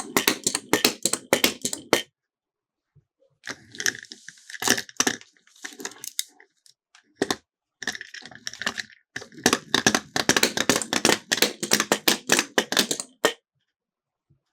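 Miniature toy cars clattering down a plastic slope: rapid runs of clicks and rattles in three stretches, stopping about a second before the end.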